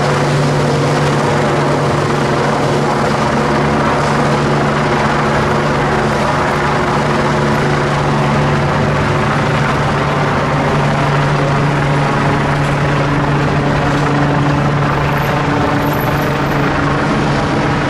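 Helicopter hovering overhead during a winch rescue: a loud, steady rotor and turbine drone with a constant low hum.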